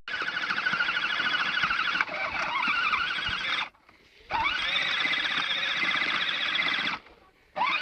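Small electric motor whining with its drive gears: three runs, each cut off abruptly, the second and third starting with a rising whine as the motor spins up before holding a steady pitch.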